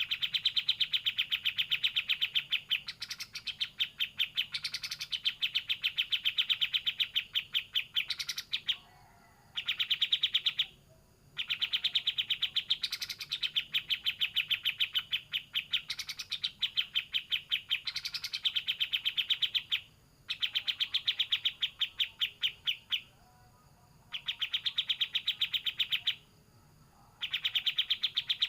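Kapas tembak songbird singing in a fast 'racing' style: long runs of rapid, evenly repeated high chirps, each lasting several seconds, with brief pauses between runs.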